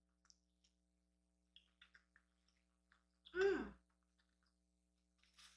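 Close-up chewing of a chorizo breakfast burrito: faint scattered wet mouth clicks, then a short voiced 'mm' that falls in pitch about three seconds in.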